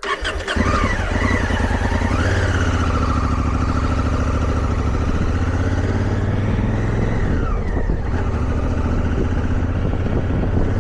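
Motorcycle engine running steadily under way, with a higher whine that rises about two seconds in and drops away near seven and a half seconds.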